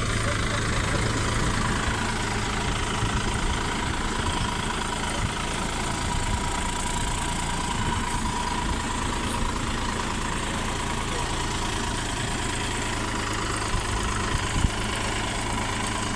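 Mahindra 475 tractor's four-cylinder diesel engine idling steadily, with an even low hum.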